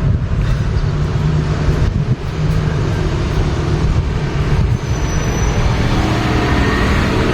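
Steady low rumble of a running road vehicle and traffic noise.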